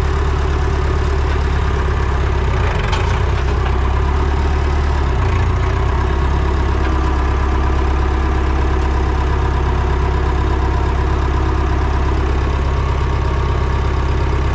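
Farm tractor engine running steadily, a constant low drone with a slight shift in its note about five seconds in.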